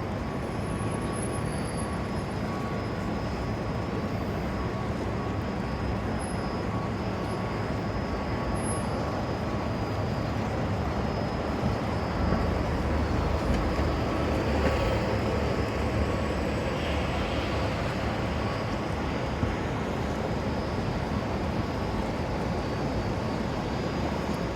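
Steady outdoor city background of vehicle rumble, a low continuous noise that swells a little about halfway through.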